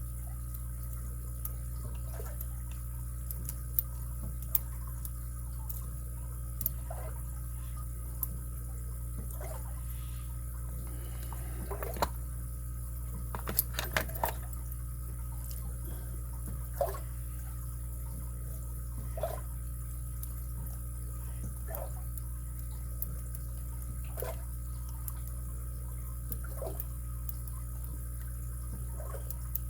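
Scattered small metallic clicks and ticks of a lock pick and tension wrench working the pins inside a padlock, with a short cluster of them about two-thirds of the way through, over a steady low hum.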